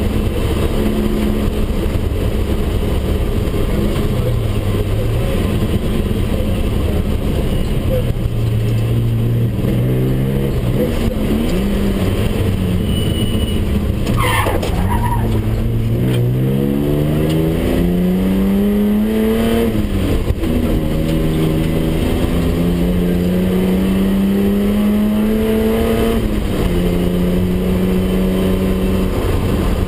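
BMW 320/6 straight-six engine heard from inside the cockpit under hard acceleration, its pitch climbing and dropping with each gear change. Around the middle the revs fall away as the car slows, with a brief squeal about 14 seconds in, then it pulls hard up through the gears again.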